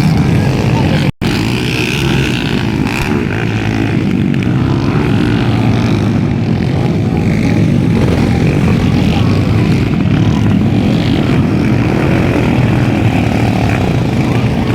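Underbone motorcycles racing on a motocross track, their small engines running hard in a steady, dense drone. The sound cuts out for a split second about a second in.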